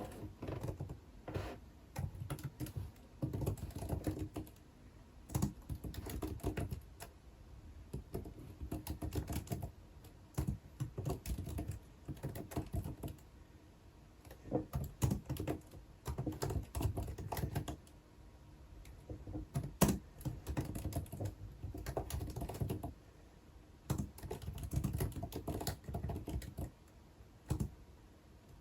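Typing on a computer keyboard: quick runs of key clicks in bursts of a second or two, broken by short pauses, with one sharper click about two-thirds of the way through.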